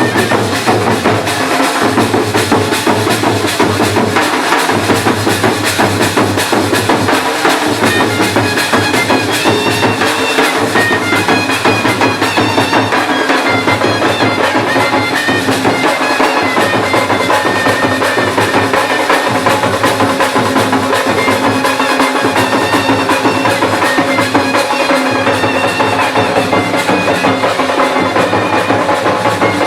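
Live traditional band playing: a shehnai melody over dense, fast drumming on dhank, nagada and tasa with jhanjh cymbals.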